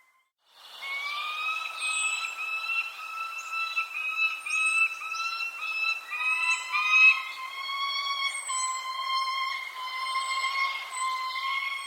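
Birds calling: short, high, falling chirps repeat every second or so over a louder, long, steady whistling tone that steps slightly lower in pitch about six seconds in. The sound drops out for a moment at the very start.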